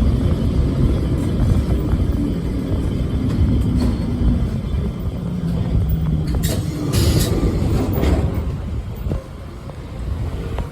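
Lisbon Tram 28 running along its rails, a steady low noise of wheels and motor, with a brief sharp noise about seven seconds in. The noise eases off near the end.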